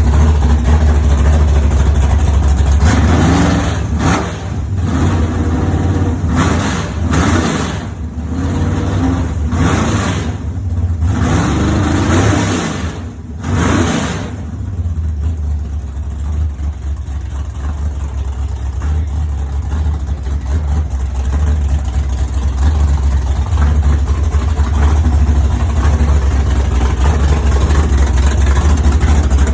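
A 496 cubic-inch big-block V8 running on its first start-up, loud. A few seconds in, the throttle is blipped over and over for about ten seconds, each rev climbing and falling back. It then settles into a steady idle.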